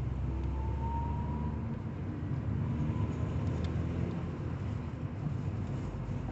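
A rattle from a Ford Fiesta, heard within a steady low vehicle rumble.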